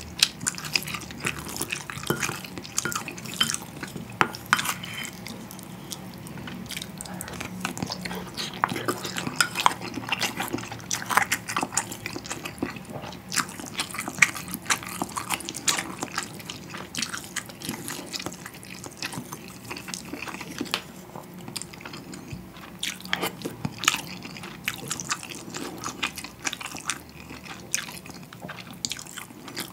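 Close-miked eating sounds from a mouthful of Spam budae-jjigae (Korean army stew): wet chewing and many quick mouth clicks and smacks, with no talking.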